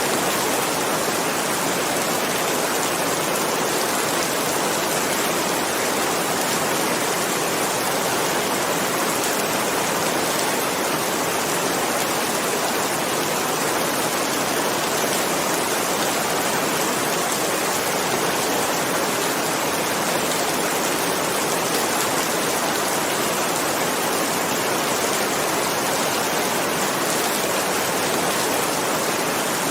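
Heavy rain falling steadily, a dense even hiss with no thunderclaps.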